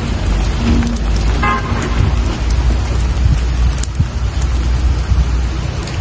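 Steady rain falling, with scattered sharp drop ticks over a deep low rumble. A brief pitched tone sounds about a second and a half in.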